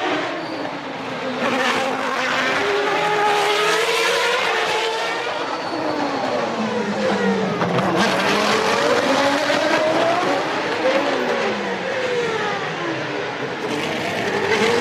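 Several 1993 Formula One cars' engines, revving up and dropping in pitch through gear changes as they pass, with more than one engine note overlapping at once.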